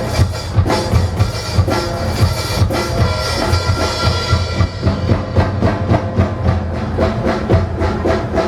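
Live percussion ensemble playing drums, with a driving rhythm that settles into a quick, even pulse of strokes about halfway through.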